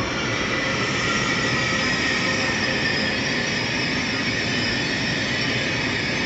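A high-speed train moving along the station track: a steady, loud running noise with a high-pitched whine held throughout.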